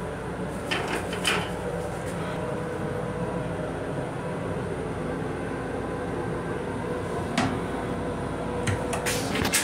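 Steady rumble and hum of a Metro-North M7 electric commuter railcar, heard inside its restroom, with a few sharp clicks and knocks about a second in, around seven seconds in, and near the end.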